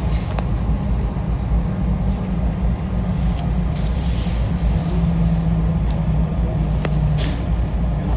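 Steady low rumble of a moving vehicle, with a faint hum about four seconds in that steps lower in pitch, and a few light clicks.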